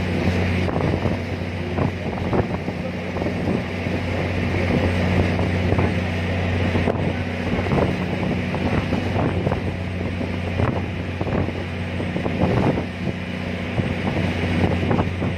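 A ferry's engine drones steadily with a low hum, under strong wind buffeting the microphone in uneven gusts.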